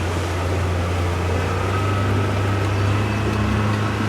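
Motorboat engine running steadily under way, a low steady hum with the rush of water and wind across the hull and microphone.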